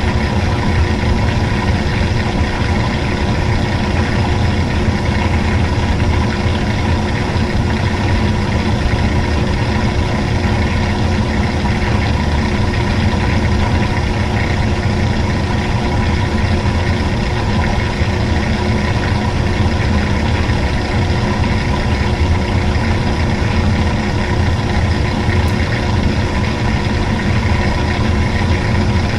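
Old-style washing machine running, its motor giving a steady hum with a constant low drone and fixed whining tones.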